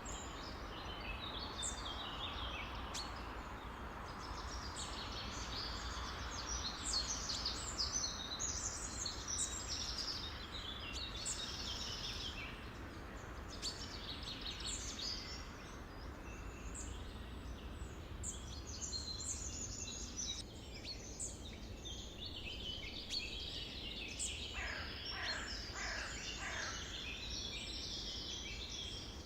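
Many songbirds singing and chirping at once in a dense, overlapping chorus of quick high notes. A run of lower, falling whistled notes comes in near the end, over a faint steady low hum.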